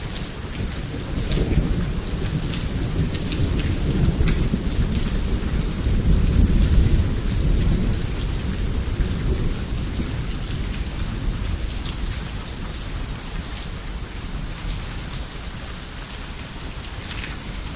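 Heavy rain falling steadily with individual drops ticking, under a long, deep roll of thunder that builds to its loudest about a third of the way in and then slowly fades away.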